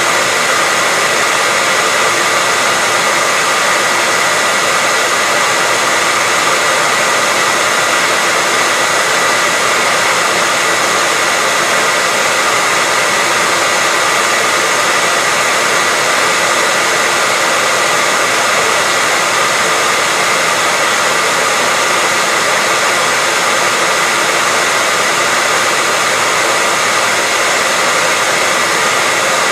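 Hair dryer running continuously at a steady speed: a constant rush of blown air with a steady high whine from the fan motor.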